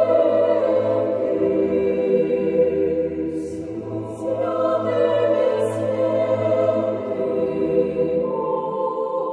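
Choir of voices singing an Orthodox church chant in slow, sustained held chords.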